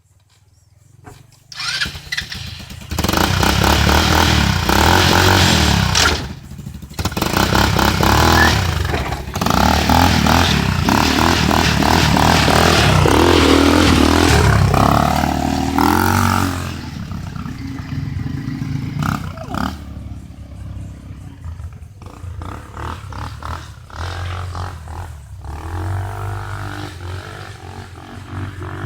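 ATV engine revving hard for about thirteen seconds, its pitch rising and falling, then running on more quietly at lower revs.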